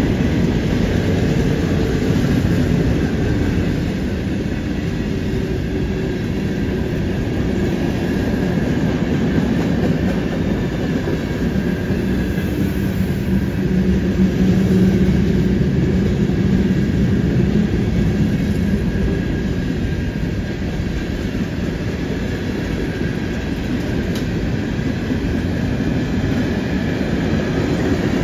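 Freight train cars rolling past on a curve: a steady rolling noise of steel wheels on the rails as covered hoppers, boxcars and tank cars go by.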